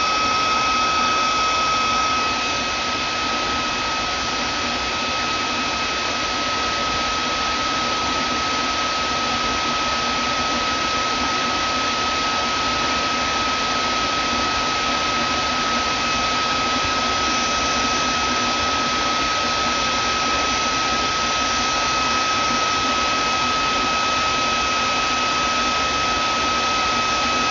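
Vacuum cleaner running steadily: a constant high motor whine over an even rushing hiss, dipping slightly in level about two seconds in.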